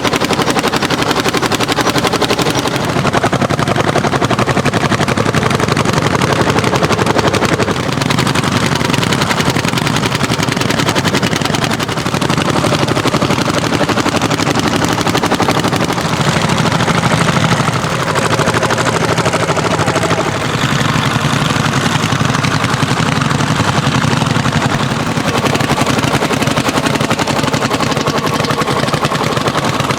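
Single-cylinder hot-bulb (testacalda) tractor engine running with a fast, even exhaust beat that rises and falls slightly in level.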